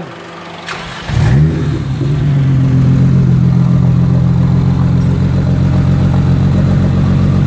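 BMW N54 3.0-litre inline-six, newly converted to a single turbo, started for the first time. It cranks briefly, catches about a second in and flares up, then settles into a steady idle.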